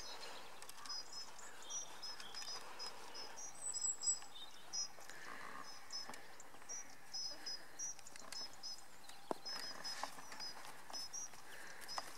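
A small bird chirping over and over, short high double notes at uneven intervals, over a faint open-air background.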